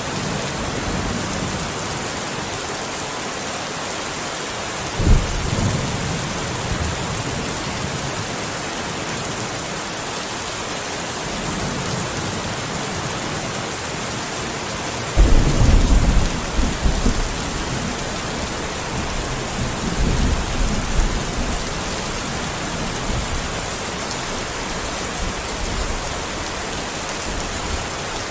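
Steady rain with thunder. A sharp thunderclap comes about five seconds in, the loudest clap rolls on for a couple of seconds around the middle, and a weaker rumble follows a few seconds later.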